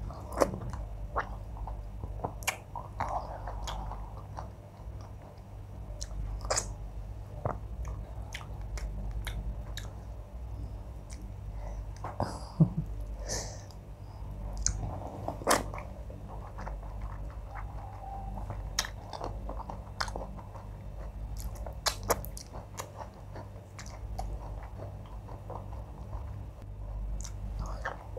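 Close-miked chewing and mouth sounds of a person eating soft wheat fufu with oha soup and fish: wet chewing with many irregular sharp clicks and smacks.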